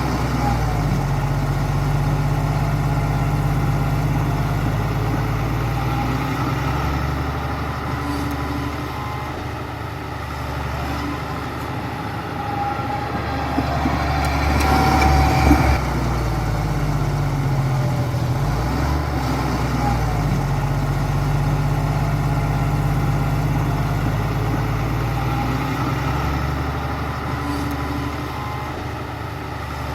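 Heavy earthmoving machine's diesel engine working steadily, its pitch shifting several times as it changes load, with a brief louder surge about halfway through.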